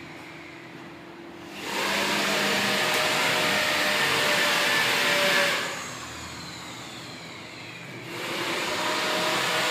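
Angle grinder cutting into wood twice. Loud cutting noise runs from about a second and a half in to just past halfway, and starts again near the end. In between, the motor runs more quietly.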